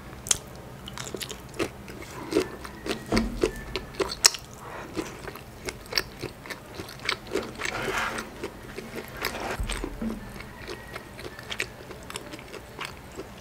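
Close-miked eating sounds: a woman chewing a mouthful of sauce-coated seafood-boil food, with many short wet clicks and lip smacks.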